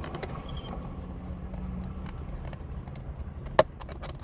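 Plastic takeout containers being handled: scattered light clicks and one sharp snap about three and a half seconds in, over a steady low hum.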